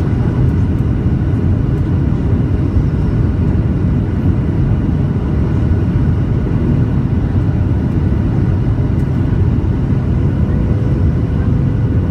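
Steady low rumble of an airliner's engines and airflow heard from inside the passenger cabin, holding even throughout, with a faint steady tone entering near the end.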